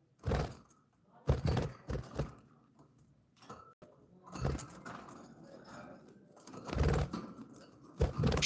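Pet budgies moving about in their cage: a series of irregular, loud bursts of rustling and knocking.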